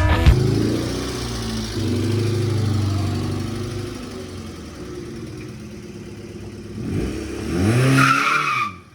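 Hyundai Excel's four-cylinder engine running, steady at first and fading through the middle, then revving up and down near the end with a short harsh higher noise over it, before the sound cuts off suddenly.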